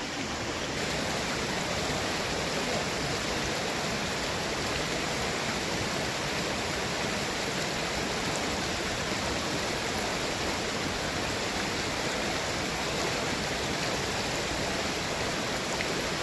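Steady rushing of flowing stream water, an even noise with no breaks.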